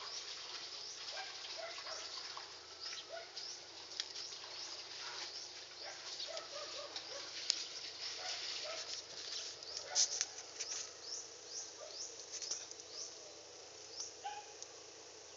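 Small birds chirping: many short, high calls falling in pitch, overlapping one another, with a few lower notes among them and the loudest call about ten seconds in.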